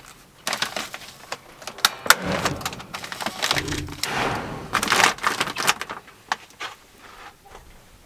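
Woven polypropylene grain sacks rustling as they are handled and stapled in place, with sharp snaps from a reverse-grip staple gun firing T50 staples. The loudest snap comes about two seconds in.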